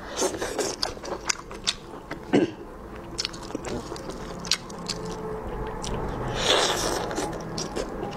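Close-miked mouth sounds of eating braised bullfrog legs: chewing and biting with scattered sharp wet clicks, and a louder hissy stretch about six and a half seconds in.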